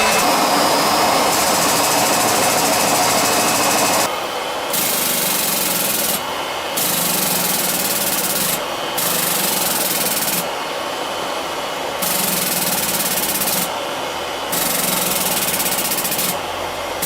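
Small homemade hydraulic forging press running with continuous mechanical machine noise. The sound switches back and forth between a louder run with a steady low hum and a quieter, duller run, six times, each quiet spell lasting about half a second to a second and a half.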